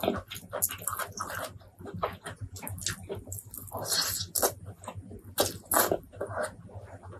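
Close-miked wet chewing and lip smacking of a person eating saucy fried chicken wings by hand, with a longer tearing bite into the chicken about four seconds in.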